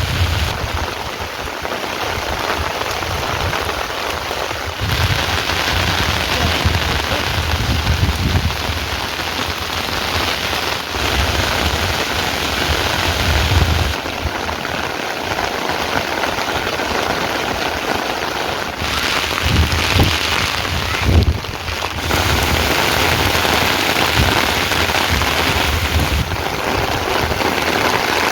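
Heavy rain pouring steadily in a dense hiss, with low rumbling swelling and fading at times.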